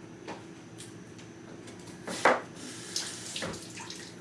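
A knife slicing through an onion onto a cutting board: a few uneven crisp cuts, the loudest about two seconds in.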